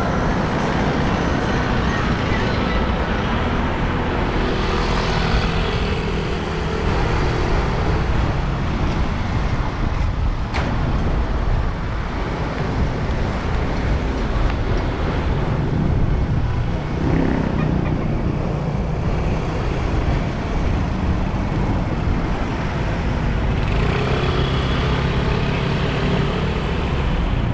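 Steady road traffic noise while riding along city streets: a continuous rumble of engines and tyres, with engines rising in tone for a few seconds twice and a single sharp click about ten seconds in.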